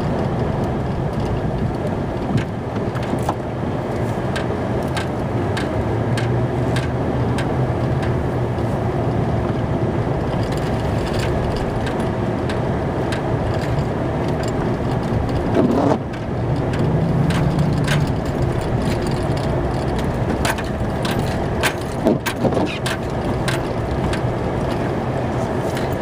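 Plow truck's engine running steadily, heard from inside the cab while plowing snow, with scattered clicks and knocks and a short rising whine about two-thirds of the way through.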